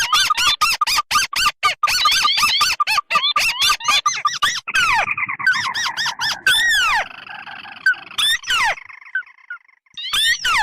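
Lure recording of crake calls, ruddy-breasted and white-browed crakes mixed, used to draw in wetland birds. A fast series of short chirping notes, several a second, with calls overlapping. The notes thin out and break off briefly after about eight seconds, then resume near the end.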